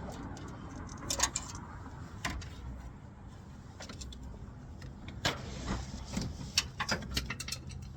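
Scattered metallic clicks and clinks of hand tools and engine parts being handled, over a steady low hum.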